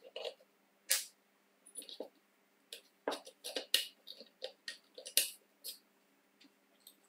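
A run of irregular light clicks and knocks, some fifteen in all and thickest in the middle, from small parts and hand tools being handled.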